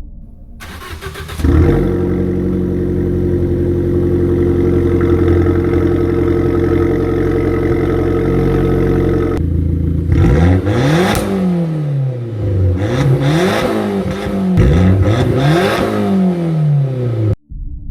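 Modified Abarth 500/595's turbocharged four-cylinder engine, running through an aftermarket exhaust. It starts up about a second in and idles steadily, then is revved several times, each rev rising and falling in pitch. The sound cuts off suddenly near the end.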